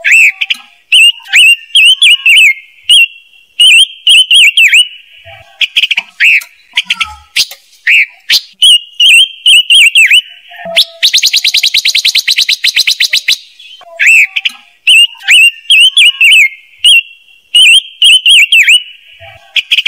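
Recorded song of the bird Vietnamese trappers call ngũ sắc, played loud as a trapping lure call: phrases of sharp, swooping chirps with short gaps between them, and a fast rattling trill about eleven seconds in.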